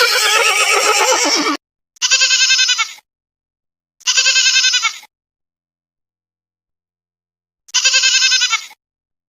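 A farm animal bleating three times, each call about a second long with a quavering pitch, after a different animal call that fills the first second and a half.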